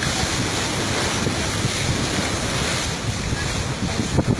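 Wind buffeting the microphone in gusts over the wash of choppy lake water.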